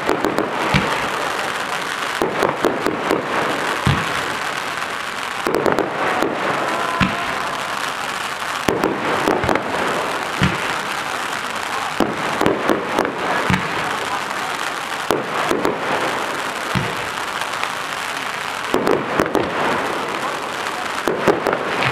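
Professional fireworks display: a continuous crackling hiss from ground fountains and crackling aerial effects. Over it come repeated clusters of sharp bangs from bursting aerial shells, every second or two.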